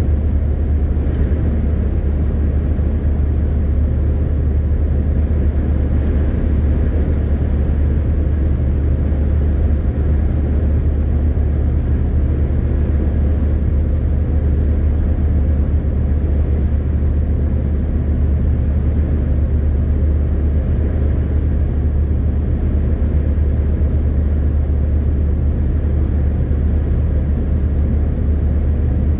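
MAN TGX 18.520 truck with its straight-six diesel running steadily at cruising speed, along with tyre and wind noise; no gear change or change in speed.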